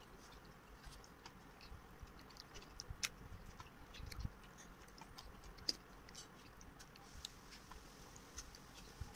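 Faint chewing and small wet mouth clicks of someone eating food by hand, with an occasional soft tick, about three seconds in and again near the end.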